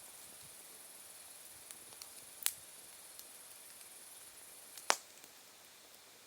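Open wood fire of glowing embers with two sharp pops of wood bursting, the louder one near the end, and a few faint crackles, over a steady high-pitched chorus of autumn insects.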